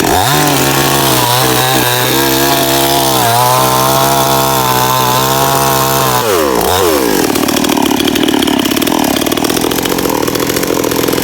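Small Stihl two-stroke chainsaw revved to full throttle and cutting wood, its pitch sagging now and then under the load. About six seconds in it drops back to a rough idle.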